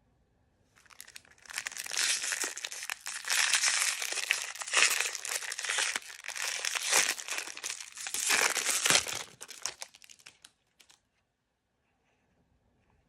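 Blind-bag packaging crinkling and tearing open as it is handled. The crackling starts about a second in and stops around ten seconds in.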